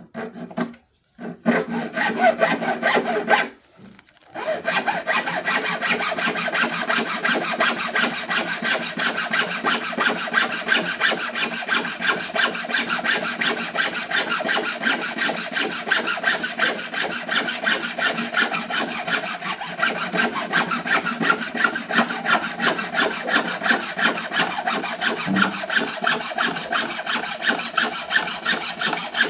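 Homemade hacksaw cutting with steady back-and-forth strokes. It stops briefly twice in the first few seconds, then saws continuously.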